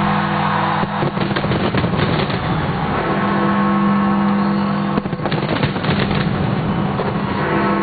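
Fireworks crackling and banging, with a deep bell ringing out over them twice, about four to five seconds apart. This is Big Ben's hour bell striking midnight.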